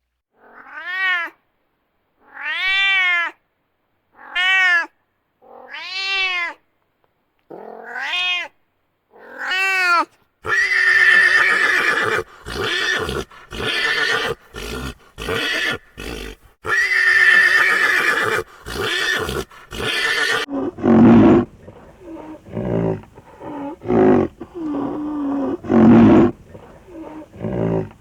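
A series of animal calls. First comes a run of separate calls, each rising and falling in pitch, about a second apart. Next is a dense stretch of overlapping, noisy cries, and after that come lower repeated calls.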